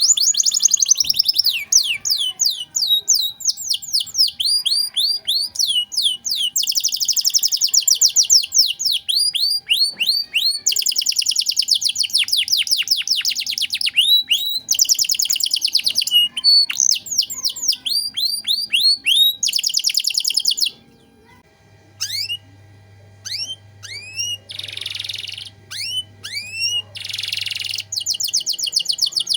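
Domestic canary singing a fast, loud song: long runs of rapidly repeated falling whistled notes and trills. About two-thirds through the song breaks off briefly, then comes back with sparser notes and two short buzzy rolls.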